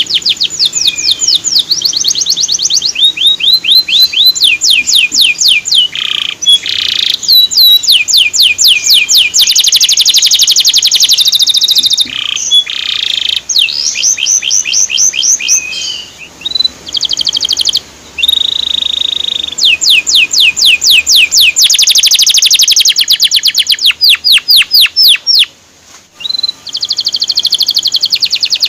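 Male canary singing: fast series of high, down-slurred notes repeated many times a second, phrase after phrase with short breaks, and one steady whistled note about two-thirds through.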